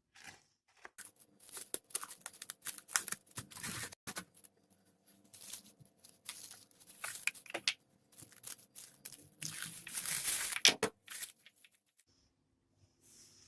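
Irregular rustling, crinkling and tearing noises from hands at work in a kitchen, loudest about ten seconds in.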